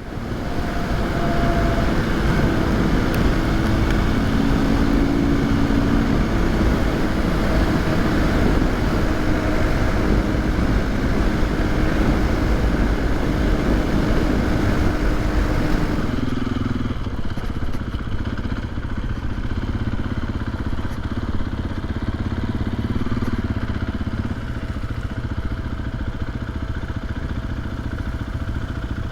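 KTM 500 EXC single-cylinder four-stroke dirt bike engines running while riding, with wind rush over them. About sixteen seconds in the sound switches abruptly to a quieter, steadier engine note.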